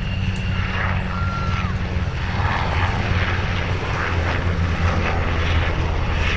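Propeller aerobatic airplane's engine droning steadily, with a brief thin tone about a second in.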